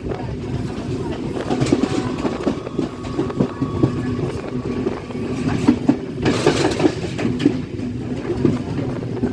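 Train running along the track, its wheels clattering steadily over the rails, with a brief rush of higher noise about six seconds in.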